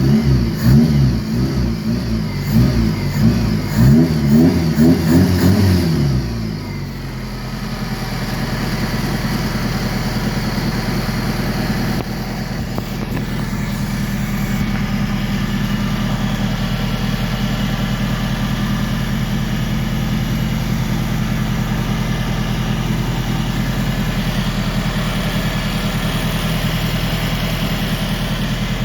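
Toyota 4K four-cylinder petrol engine, repeatedly revved up and down for about six seconds, then settling into a steady idle. It is running cleanly again with its flooding carburetor fixed.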